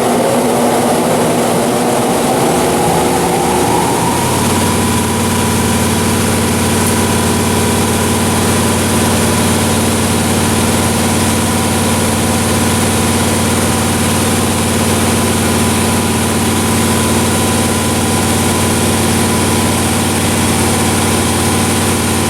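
Fadal vertical machining center running a program: a whine rises in pitch over the first four seconds, then settles into a steady hum with a high whine on top.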